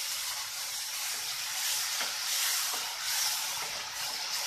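Freshly added wet onion paste sizzling in hot oil in a kadai, a steady hiss.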